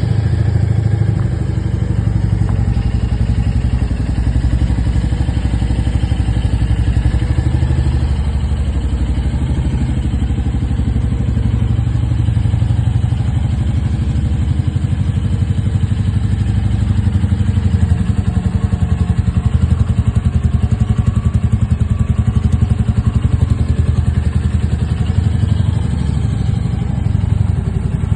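Royal Enfield Meteor 350's single-cylinder engine running steadily at an even speed with a dense, regular low pulse.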